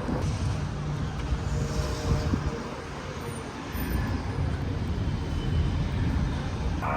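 City street traffic: cars driving past, a steady mix of engine and tyre noise.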